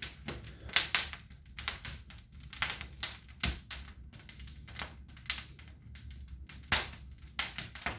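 Wood fire crackling in the fireplace: irregular sharp pops and snaps, several a second, with a louder pop about three and a half seconds in and another near seven seconds.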